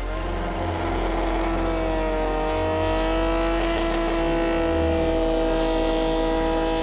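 Drift car's engine held at high revs, its pitch rising slightly and then holding steady for several seconds.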